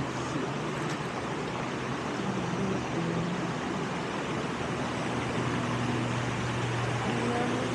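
Steady rush of a waterfall, an even roar of falling water.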